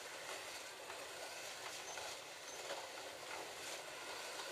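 Several slot cars racing together on a plastic track: a steady whirring hum from their small electric motors, with a rattling clatter of the cars running over the track.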